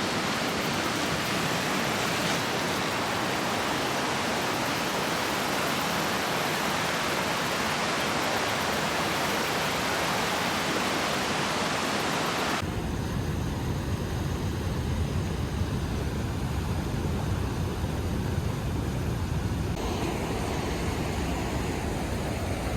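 Steady roar of Niagara Falls' falling water, starting suddenly. About halfway through it changes abruptly to a deeper, rumbling roar with less hiss.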